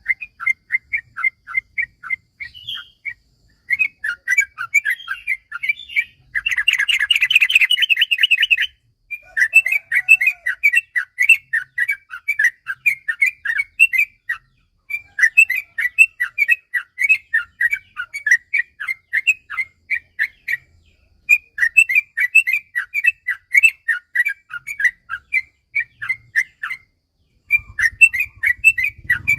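Yellow-vented bulbul (trucukan) singing long runs of fast, chattering notes, phrase after phrase with short pauses between, with a louder, denser trill about seven seconds in.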